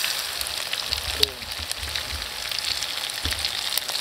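Food sizzling in hot oil in a wok over a wood fire, stirred with a wooden spatula: a steady hiss with many sharp crackles.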